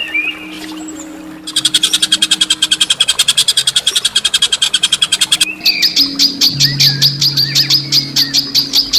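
Songbird calls: a fast rattling trill of harsh repeated notes, about ten a second, starting about one and a half seconds in, then changing about halfway through to a rapid run of sharp, high, piercing chips.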